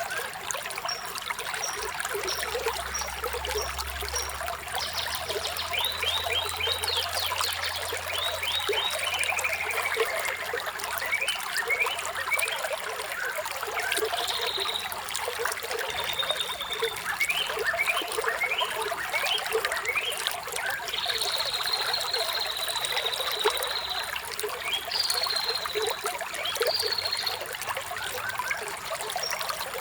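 Running water trickling steadily, with birds singing over it: bursts of high chirps, quick trills and runs of short falling notes.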